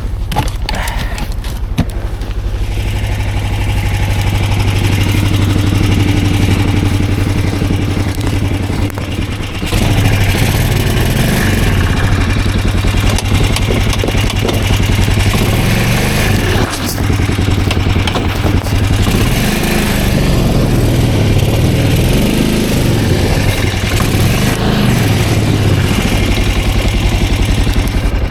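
Snowmobile engine running and revving, its pitch rising and falling over and over. It gets louder about ten seconds in.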